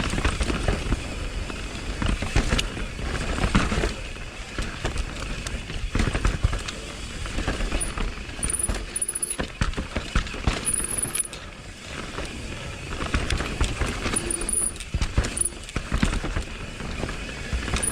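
Mountain bike riding down a dirt downhill trail: tyre noise over a low rumble, broken by frequent irregular clicks and knocks as the bike rattles over bumps and roots.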